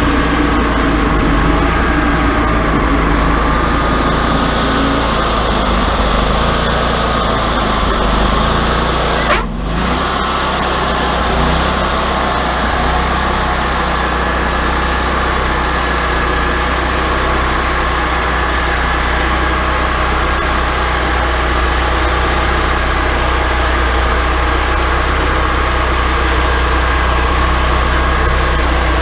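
Wood-Mizer LT40 portable bandsaw sawmill running steadily, with a short sharp click and a brief drop in level about nine seconds in.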